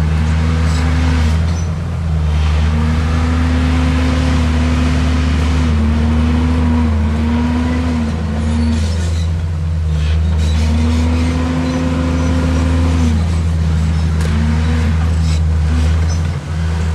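Heavy construction machine's diesel engine running hard, its revs rising and falling several times as it works under load.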